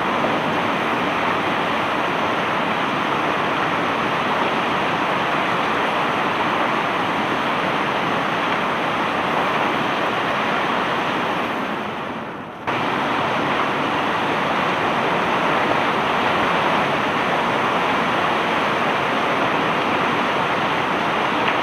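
Steady rushing noise of bulk cargo pouring off a barge during unloading. It fades down a little past the middle, then cuts back in abruptly.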